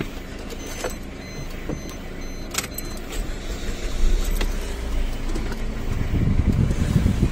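Small car's engine started with the ignition key inside the cabin: a few key clicks, then the engine comes in low and keeps running from about three to four seconds in.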